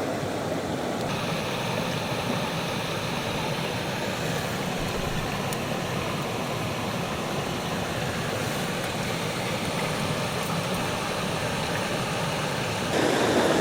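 Steady rush of a mountain stream's flowing water, getting a little louder near the end.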